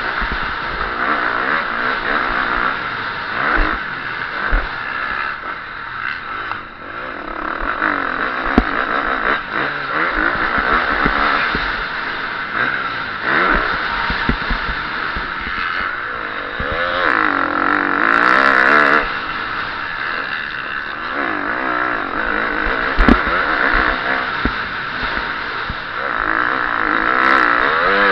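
KTM 350 SX-F four-stroke single-cylinder motocross engine, heard from the bike itself, revving up and falling back again and again under hard riding. The revs run highest for about two seconds past the middle, and a few sharp knocks come through, the loudest about 23 seconds in.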